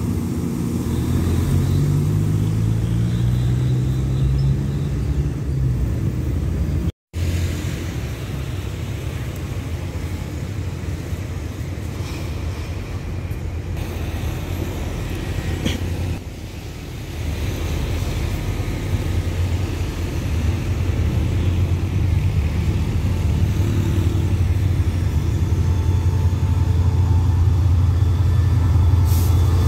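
Diesel railcar engines rising in pitch as the train pulls away, then, after a break, a steady low diesel drone that grows louder as a diesel locomotive draws alongside the platform.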